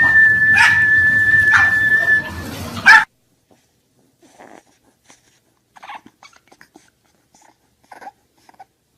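A dog's long, high, steady whine held for about three seconds, cutting off abruptly; after it only faint scattered ticks.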